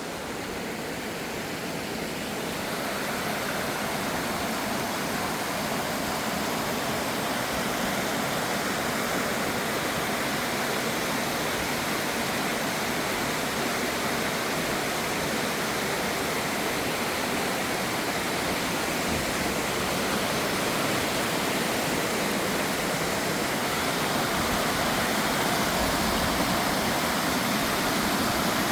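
Waterfall and its fast-flowing stream, a steady rush of water that grows a little louder about two seconds in.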